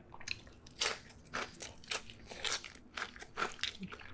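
Chewing and biting crunchy Cheetos nachos topped with cheese sauce and ground beef: a run of crisp crunches, about two a second.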